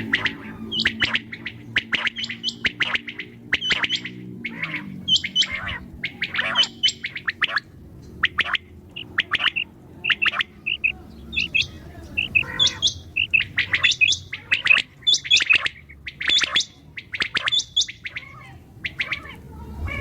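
Common quail calling: a dense run of short, sharp, high call notes, about two a second, repeated irregularly.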